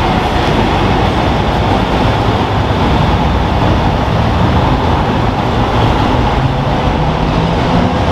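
Ferrari F12berlinetta's V12 engine running steadily as the car pulls out and drives slowly away.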